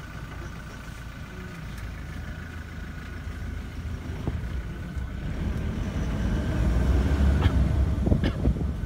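A vehicle's engine running with a low rumble that grows louder through the second half.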